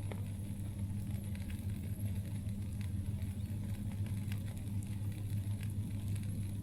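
Campfire crackling: scattered sharp pops and snaps from the burning wood over a steady low rumble.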